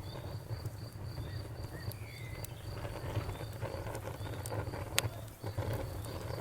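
Wood fire crackling with scattered sharp pops, the sharpest about five seconds in, over a low steady rumble. A cricket chirps steadily in the background.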